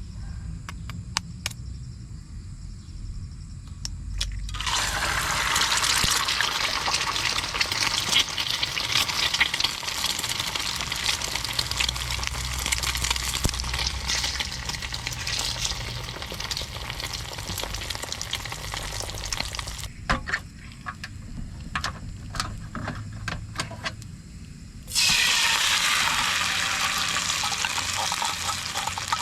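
Food sizzling in hot oil in a pan. The sizzle starts suddenly about four seconds in and goes on steadily; after a quieter stretch with light clicks and taps, a fresh loud sizzle starts abruptly near the end and slowly fades.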